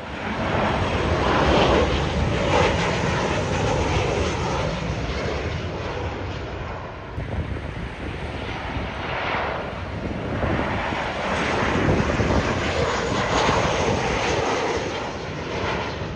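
Jet airliner passing low overhead: loud, continuous engine noise that swells and eases in slow waves.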